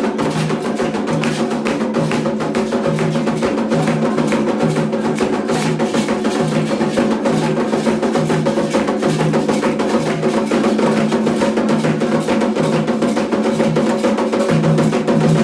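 Candomblé ritual percussion: hand drums played in a fast, steady rhythm with sharp, wood-block-like strikes over sustained low tones.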